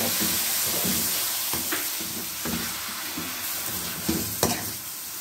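Shredded chicken frying in a stainless steel pan, sizzling with a steady hiss as tomato paste is stirred in. The sizzle is loudest at the start and slowly eases. A slotted spatula scrapes and taps against the pan a few times.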